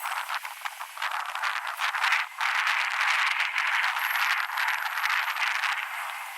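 Wind rushing over the microphone with a dense, irregular rattling clatter during an electric skateboard ride. It dips briefly about two seconds in, is loudest for the next few seconds, then eases near the end.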